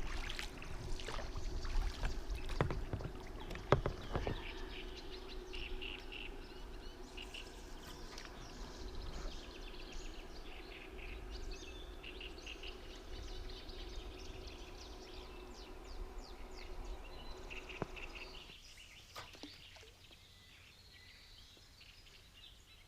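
Birds chirping and singing, with a steady low hum underneath that stops about eighteen seconds in. There are a couple of sharp knocks in the first few seconds.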